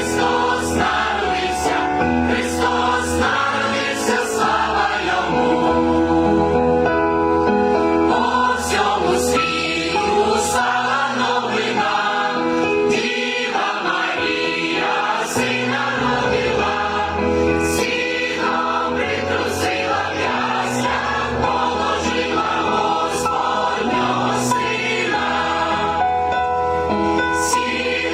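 Choir singing a Ukrainian Christmas carol with musical accompaniment and sustained bass notes underneath.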